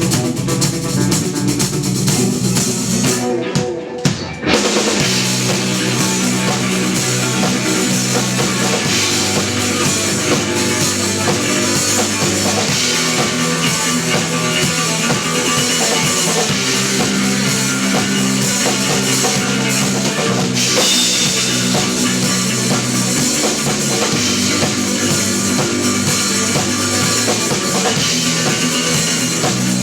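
Instrumental progressive/post-rock played live by a trio of electric bass, electric guitar and drum kit. About four seconds in the band drops out for a brief break, then comes back in full.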